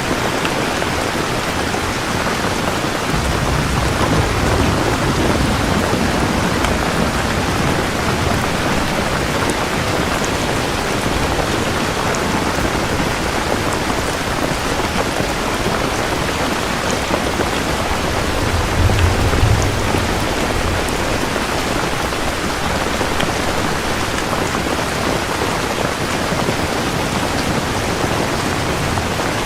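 Steady heavy rain, with low rolling thunder rumbling twice: a longer roll a few seconds in and a louder one about two-thirds of the way through.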